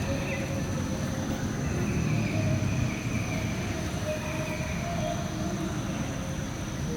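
Heavy rain falling, a steady low rumbling noise that does not let up.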